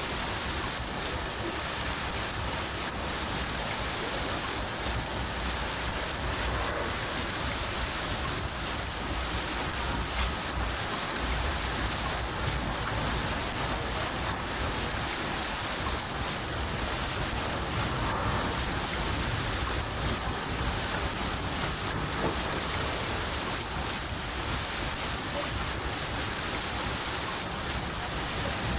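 Crickets chirping in an even, rapid rhythm of high chirps, pausing briefly once, over the steady hiss of falling rain.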